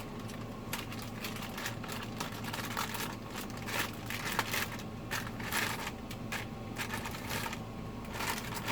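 Close-miked eating sounds: a person chewing food with irregular wet clicks and smacks of the mouth.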